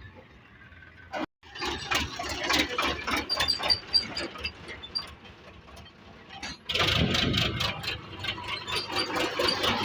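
Diesel tractor engines running with a dense clatter of knocks and rattles, growing louder from about seven seconds in.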